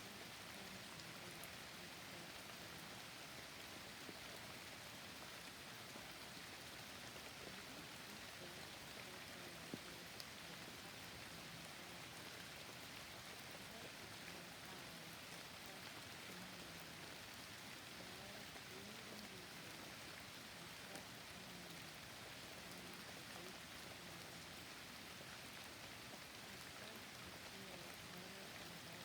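Steady, faint rain falling, with a couple of sharper drop ticks a little under halfway through.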